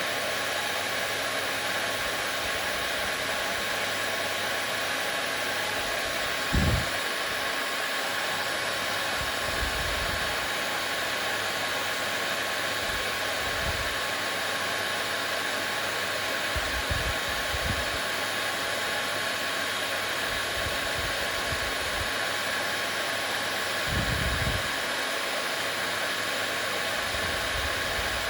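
Hair dryer running steadily: an even rushing hiss with a faint steady whine. A few brief low bumps cut in, the loudest about a quarter of the way in and again a few seconds before the end.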